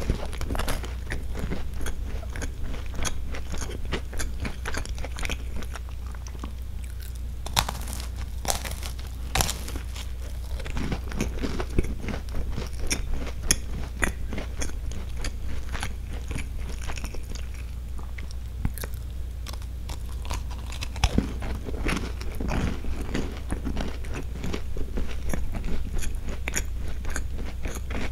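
Biting and chewing a crisp cream-filled Roppongi Palette sandwich biscuit close to the microphone: a steady stream of small crunches and crackles with a few louder bites, over a steady low hum.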